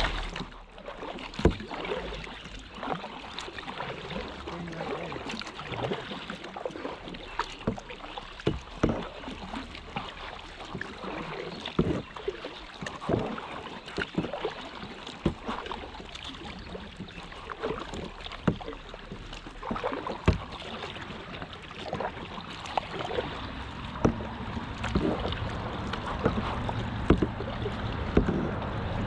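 Kayak paddling on a river: the paddle dips into the water with irregular sharp splashes and drips.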